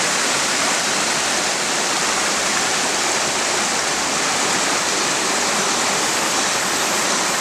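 Steady rushing of flowing water, an even hiss that holds at the same level throughout.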